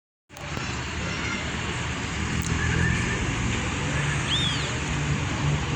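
Scania bus diesel engine running with a steady low hum. A brief high chirp comes about four seconds in.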